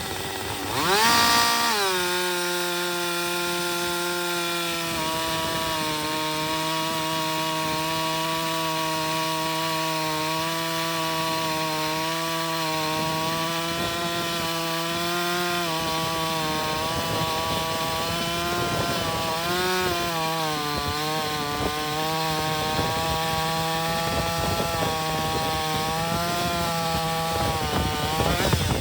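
Gasoline chainsaw cutting through wood: it revs up about a second in, then settles to a steady, lower pitch under load through a long cut, the pitch wavering a little past the middle, and drops off right at the end.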